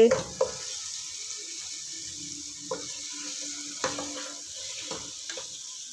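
Boiled chicken pieces sizzling in hot oil and fried masala in a nonstick pot as they are stirred with a wooden spatula, with a few light knocks of the spatula against the pot.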